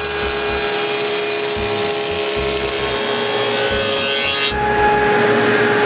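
Table saw with a dado set running and cutting a rabbet in a wooden window-frame rail: a steady motor-and-blade hum under the noise of the cut, which thins out about four and a half seconds in as the cut changes.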